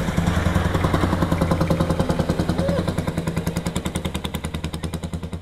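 Old tractor engine running with an even beat of about eight firing pulses a second, fading as it moves away near the end.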